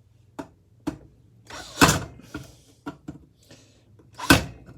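A series of sharp knocks and clunks from hand tools and metal ceiling-fan parts being handled and struck on a workbench, about six in all, the loudest two about two seconds in and near the end.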